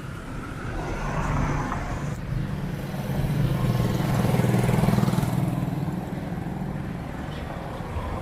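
A motor vehicle's engine passing close by in street traffic. It grows louder toward the middle, then fades away.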